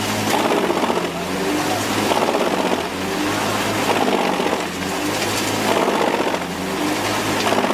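Large industrial wood chipper running under load, its engine drone and the grinding of the wood swelling and easing about every two seconds.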